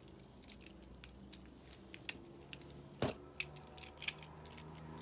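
Light plastic clicks and rattles from Beyblade parts being handled, with one sharper knock about three seconds in and a quick run of clicks just after it.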